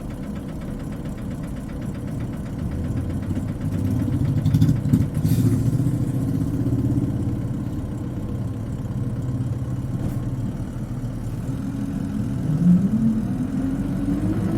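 Isuzu Cubic KC-LV380N city bus's diesel engine, heard from inside the cabin, running at a low steady pitch. Near the end it rises in pitch as the bus accelerates, with the high whine that marks this particular bus's engine.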